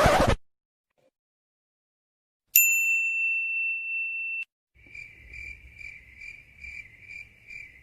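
Edited sound effects: a single high ding starts sharply about two and a half seconds in, holds for nearly two seconds and cuts off abruptly. A high chirp then pulses about twice a second to the end, over a faint low hum.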